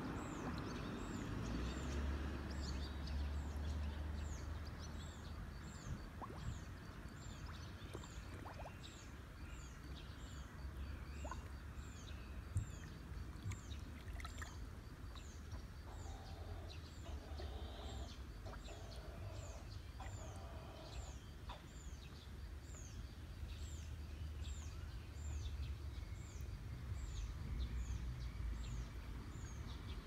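Outdoor ambience: a bird repeats a short, high, falling chirp about three times every two seconds, over a steady low rumble.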